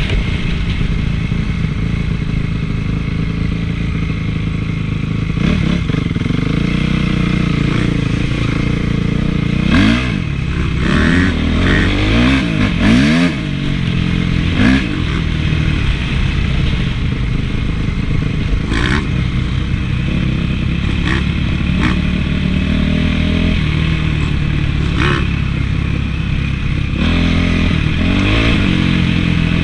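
Honda CRF450 four-stroke motocross bike engine running under riding load, its pitch rising and falling as the throttle is worked and gears change, with a few sharp knocks and clatter in the middle.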